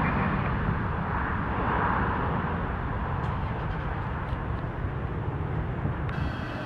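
Airliner engine noise, a broad steady rumble that slowly fades as the aircraft moves away, with an abrupt change in the sound about six seconds in.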